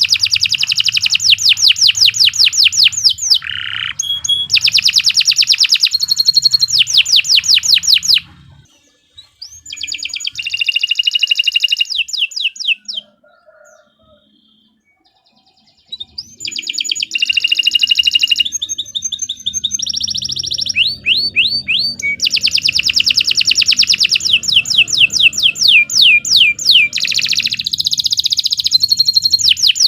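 Domestic canary singing a long, loud song of fast rolling trills and rapidly repeated chirps, breaking off briefly twice.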